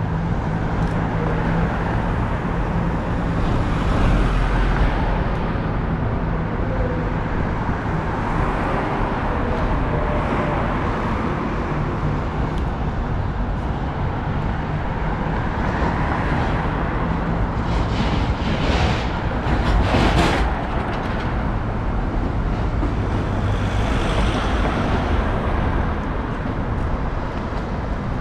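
Road traffic noise of city streets, with vehicles passing and the traffic swelling louder a few times, near 4 seconds in and again around 19 to 20 seconds.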